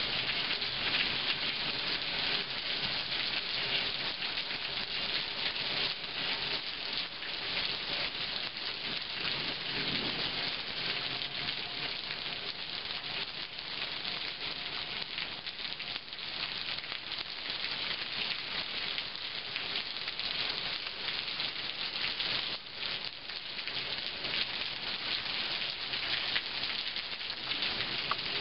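Steady rain falling on grass, trees and a concrete edge, an even hiss of many drops.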